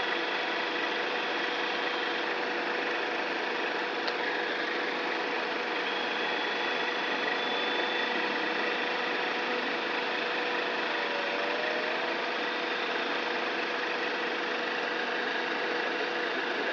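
Honda Freed engine idling, a steady even hum with no change in level.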